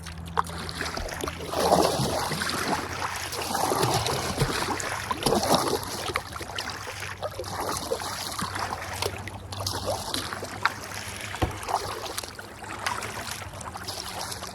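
Kayak paddle strokes through the water, with swells of splashing every second or two.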